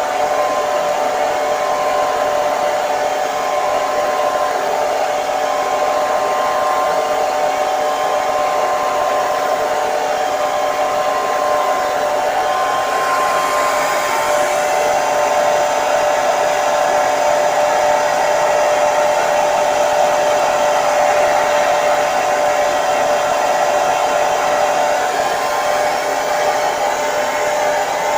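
Hair dryer running steadily: a constant blowing rush with a steady motor whine.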